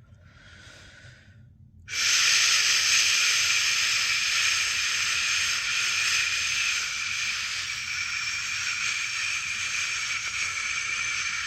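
A person's voiced 'shhh' shushing sound used to soothe a newborn to sleep (shush-pat method). A brief soft shush comes first, then about two seconds in a long, loud, steady shush is held.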